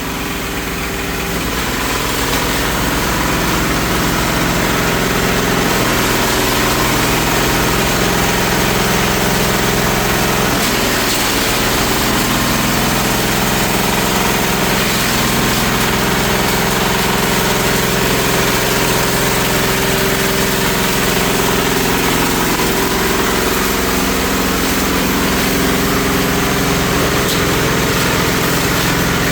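16 hp diesel engine driving a waste-sorting machine, running steadily at an even speed.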